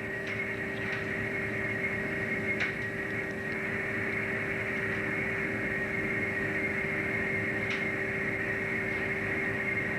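Steady mechanical hum of a fishing boat's engine and machinery heard aboard, with a couple of faint clicks about two and a half and seven and a half seconds in.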